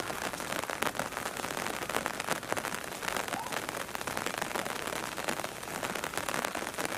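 Rain falling: a steady, dense patter of many small drop clicks.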